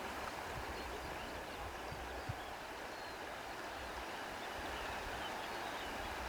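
Steady outdoor nature ambience: an even rushing noise like running water, with faint high bird chirps here and there.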